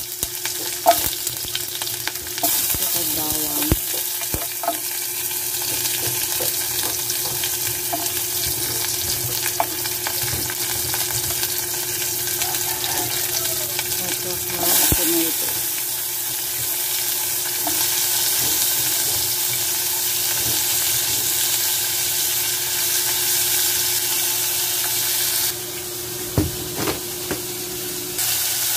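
Chopped onion and other vegetables sizzling steadily in hot cooking oil in a saucepan, with scattered light clicks.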